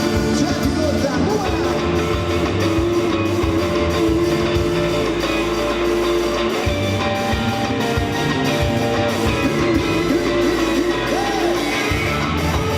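Live ska band playing loud amplified music with singing, guitar and drum kit; a long held bass note runs through the middle.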